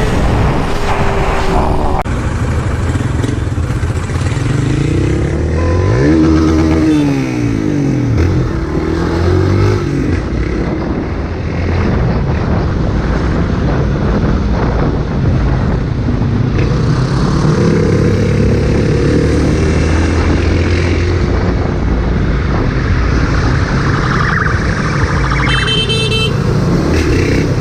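Motorcycle engine running under way, its pitch rising and falling with the revs, most clearly about six to ten seconds in. A short beep near the end.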